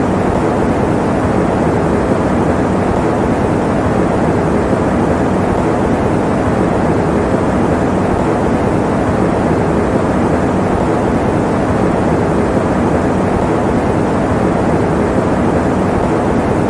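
Electric fan running steadily: an even, unbroken rushing noise, mostly low and middle in pitch with little hiss on top.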